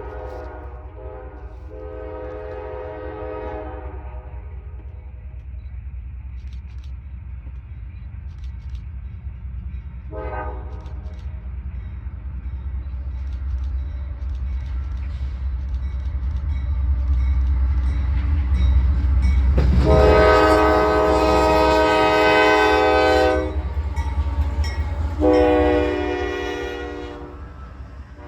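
Locomotive air horn sounding a chord of several tones in repeated blasts, the longest and loudest about two-thirds of the way through, over the low rumble of an approaching train that builds and then eases near the end.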